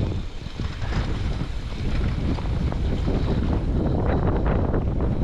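Wind buffeting the microphone on a moving vehicle: a heavy, rough low rumble that rises and falls unevenly, with road and travel noise underneath.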